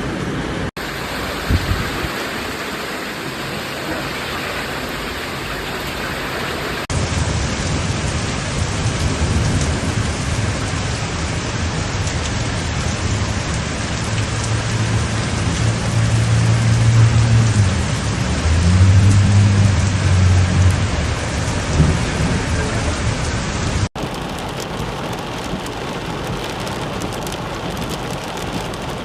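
Heavy rain pouring down in a storm, heard across several spliced clips that cut in abruptly. In the middle stretch a low steady hum rises under the rain, then fades.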